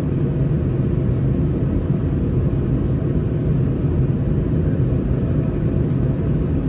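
Steady low drone of an Airbus A319 in flight, heard from inside the passenger cabin: CFM56 turbofan engines and airflow over the fuselage, with the strongest part a deep hum and no change in level.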